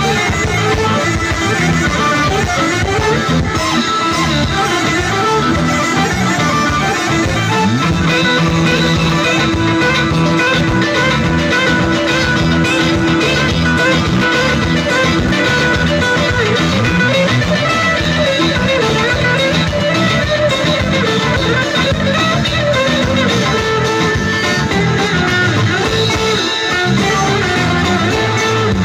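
Instrumental Albanian orkestrale band music with a guitar lead over a steady dance beat.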